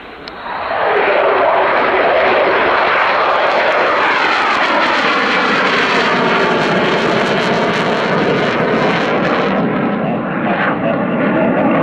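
Eurofighter Typhoon jet, with twin turbofans, passing close by. Its loud engine sound swells in about a second in and holds steady, with a slowly sweeping, phasing quality as it goes past.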